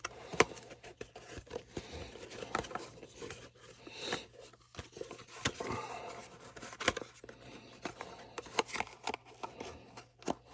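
Irregular small clicks, taps and rustles of hands working on the string trimmer and its parts, over a faint steady low hum.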